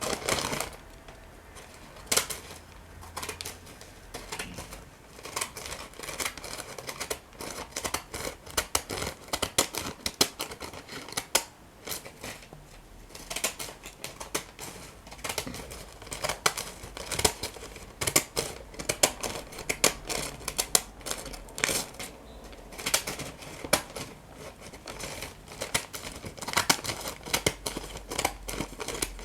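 Scissors cutting paper: many quick, irregular snips.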